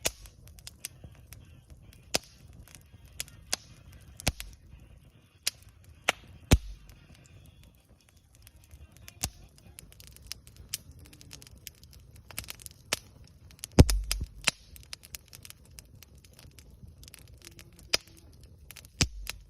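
Wood campfire crackling, with irregular sharp pops, a few of them much louder, about a third and two-thirds of the way through.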